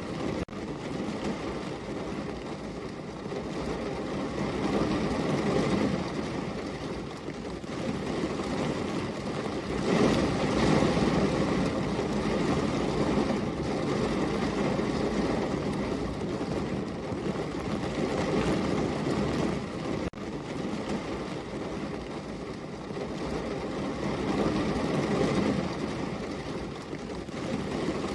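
Steady heavy rain, a dense rushing noise that swells and eases every few seconds, with a momentary break near the start and another about two-thirds of the way through.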